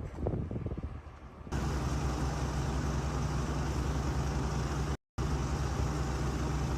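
Uneven low rumbling for about a second and a half, then the steady low drone of a motor vehicle's engine running, with a brief dropout around five seconds in.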